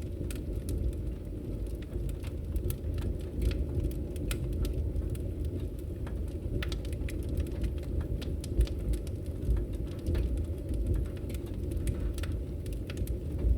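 Wood fire burning in a fireplace: a steady low rumble of the flames with irregular crackles and pops from the burning wood.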